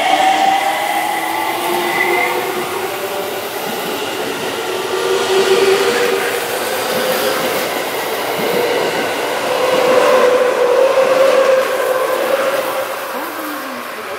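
Electric commuter train pulling out of a station: the traction-motor whine climbs in pitch as it gathers speed, then holds steady as the cars roll past. It fades near the end as the last car clears.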